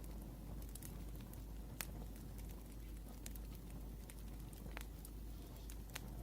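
Wood fire crackling, with irregular sharp pops and snaps over a low, steady hiss of burning.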